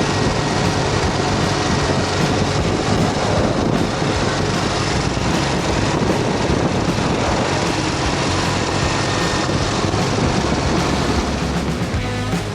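Ural motorcycle's air-cooled flat-twin engine running steadily at cruising speed, heavily mixed with wind and road noise.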